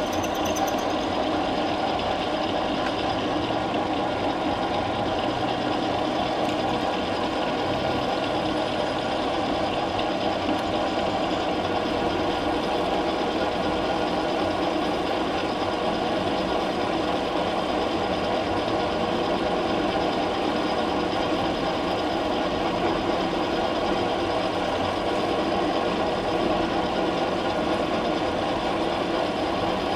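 Metalworking lathe running steadily under power, its motor and gear train giving a constant hum with a dense mix of steady tones.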